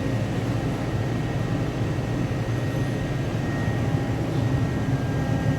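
Steady hum of shipboard machinery and ventilation, heavy and low, with a thin steady whine above it.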